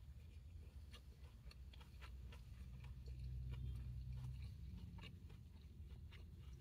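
Faint chewing and small mouth clicks of someone eating fast food, over the low steady hum of a car idling with its air conditioning on.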